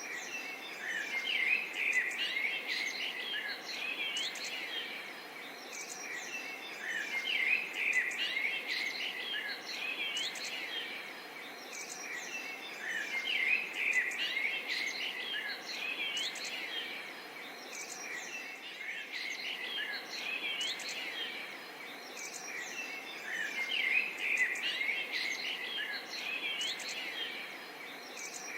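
Many birds chirping and calling together in a dense chorus of short, quick calls over a steady background hiss, swelling and easing every few seconds.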